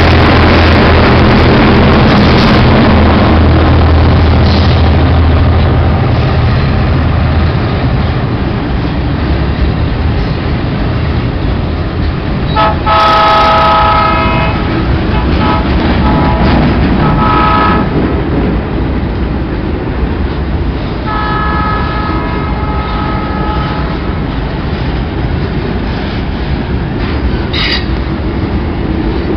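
Diesel freight train passing close: the lead EMD GR-12W and ALCo RSD16 locomotives' engines throb loudly for the first several seconds. About halfway through, a multi-note locomotive horn sounds in several blasts, then again a few seconds later, while the wagons roll by with wheels clattering on the rails. A brief wheel squeal comes near the end.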